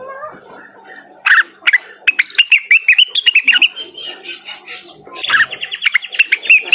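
Cucak wilis leafbird singing in full voice: two long runs of rapid, sharp chirps, each note sweeping down in pitch, the first starting about a second in and the second near the end, with softer twittering between.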